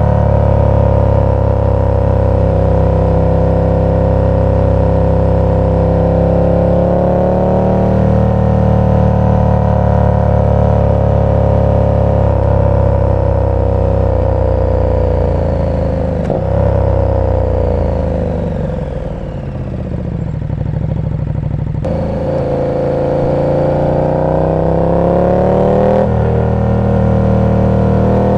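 KTM 1290 Super Duke R's V-twin engine through an aftermarket exhaust, running at steady revs. About two-thirds of the way in the revs drop away as the bike slows, then climb again as it accelerates and settle back to a steady pull.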